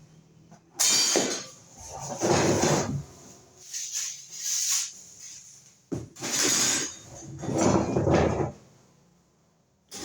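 Plastic fan parts and packaging being handled, with five separate bursts of scraping and rattling.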